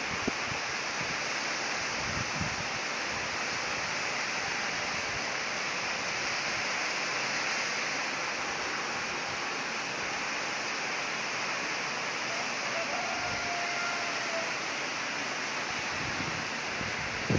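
Steady rushing hiss of blizzard wind, even throughout with no strong gusts.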